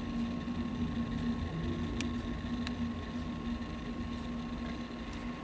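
Aircraft engines running steadily at low power: a constant drone over a low rumble, with two faint clicks about two seconds in.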